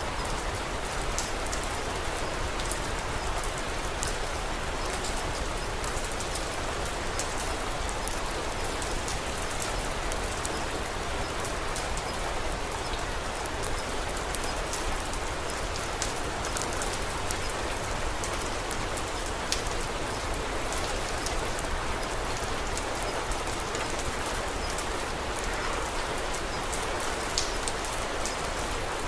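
Steady rain falling, an even hiss with many small sharp ticks of drops scattered through it.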